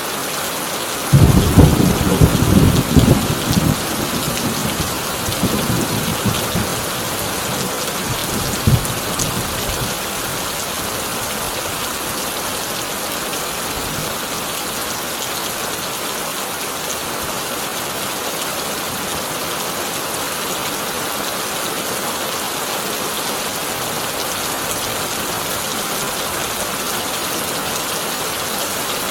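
Heavy rain on a tin roof, an even steady hiss. A loud thunderclap breaks about a second in and rumbles on for several seconds, with one more short crack of thunder a little later.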